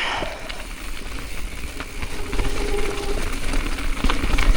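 Mountain bike, a Specialized Status, riding down a wet dirt trail: rumbling tyre and wind noise on the camera mic with scattered rattles and clicks from the bike, growing louder as it picks up speed.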